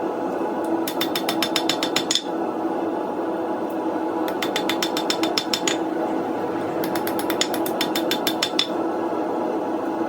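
Hammer striking the hot steel blade of a coil-spring knife on an anvil, straightening and flattening it. There are three runs of quick, light blows, about eight a second, each run lasting a second or so, over a steady hum.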